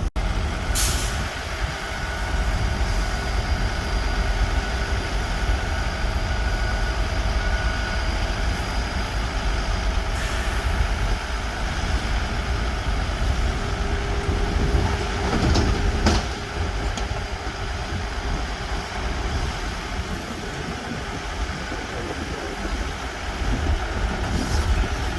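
Heavy diesel earthmoving machinery running steadily, with a few short hisses.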